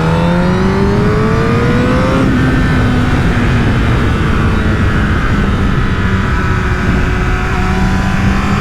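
A Honda CBR1000RR Fireblade's 998 cc inline-four, fitted with a LeoVince aftermarket exhaust, accelerates under throttle. Engine pitch rises for about two seconds, then a gear change drops the revs, and it runs on at fairly steady revs under a constant rush of noise.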